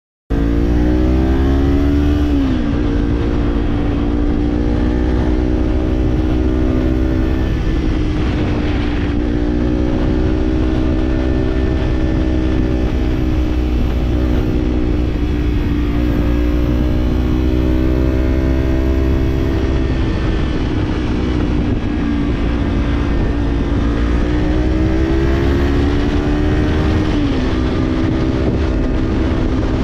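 Kawasaki parallel-twin motorcycle with an Orion Katya slip-on exhaust, running under way at a fairly steady engine speed. The throttle rises and eases a little, and the engine pitch drops sharply about two seconds in and again near the end, as at gear changes.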